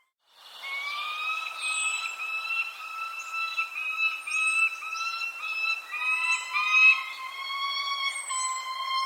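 Birds calling: a run of steady, whistle-like calls repeated in short segments, with brief high falling chirps over them. The sound cuts out for a moment right at the start, then comes back.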